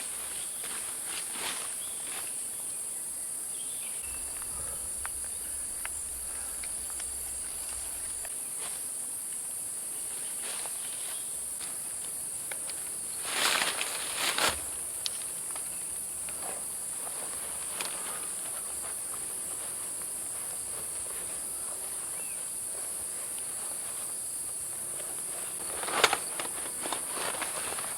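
Steady high-pitched insect chorus of cicadas or crickets shrilling through the forest. Brief rustling crunches break in about halfway through and again near the end.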